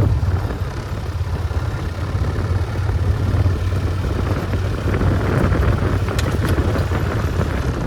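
Vehicle engine running steadily at low speed, with wind noise on the microphone and a few short clicks about six seconds in.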